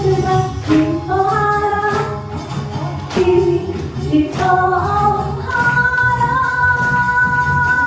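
A woman singing a Korean gospel song over instrumental accompaniment. From about two-thirds of the way in, the music settles into one long held note.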